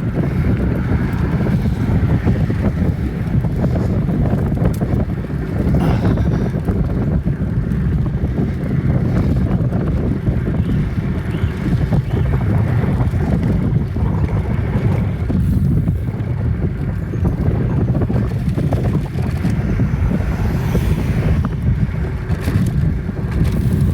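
Steady wind noise buffeting the microphone of a phone filming from a moving bicycle, a constant low rumble.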